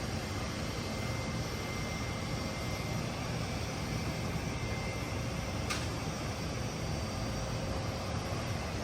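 Steady jet aircraft noise with a faint high whine running through it, and one brief click a little past halfway.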